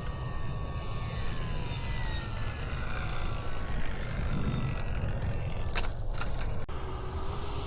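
Wind buffeting the microphone with a steady low rumble, under faint falling whines. A few sharp clicks come about six seconds in. Near the end, an RC model jet's electric ducted fan begins to spool up with a rising whine.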